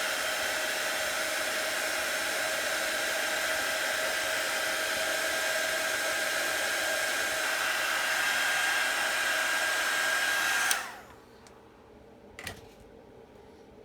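Handheld dryer blowing steadily with a constant whine, drying wet chalk paste; it is switched off about eleven seconds in. A faint tap follows about a second and a half later.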